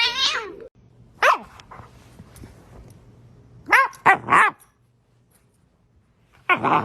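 A dog barking in short calls: one about a second in, three in quick succession around four seconds, and another near the end.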